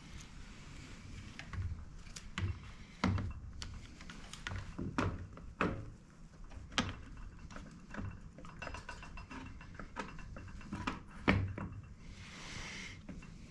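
Irregular knocks and clicks of tools and metal parts being handled during motorcycle rear suspension work, with a short hiss about a second long near the end.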